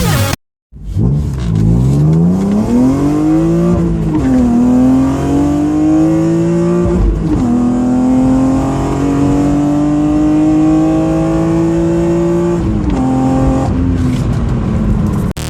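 BMW M3 engine accelerating hard from a standstill through the gears: the pitch climbs steadily, drops at each upshift about 4, 7 and 13 seconds in, and climbs again after each.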